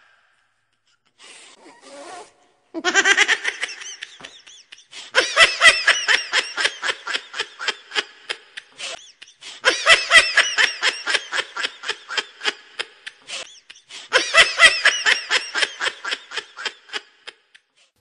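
A person laughing hard: after a short faint laugh near the start, four long bouts of rapid "ha-ha" pulses, each starting loud and trailing off.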